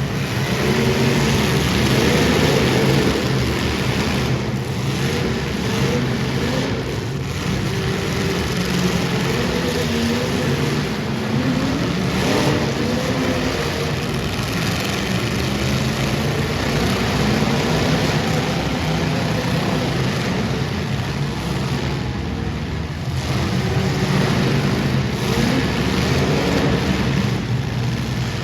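Several demolition-derby car engines running hard and revving, their pitch rising and falling without a break.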